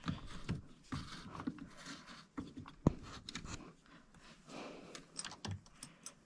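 Light, irregular clicks, taps and scrapes of hand work fitting an engine mounting bolt through a motorcycle frame, with one sharper knock about three seconds in.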